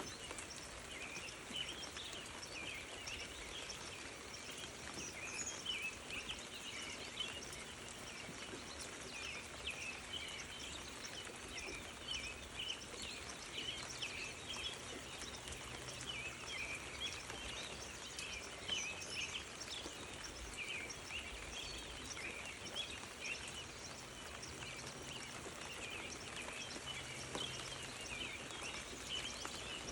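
Outdoor chorus of many small animals calling: a dense, continuous mass of short, overlapping high chirps.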